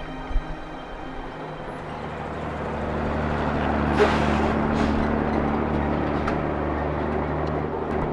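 A bus pulling in: its engine rumble grows louder over the first few seconds, then the air brakes hiss about four seconds in and again a moment later, and the engine keeps running steadily.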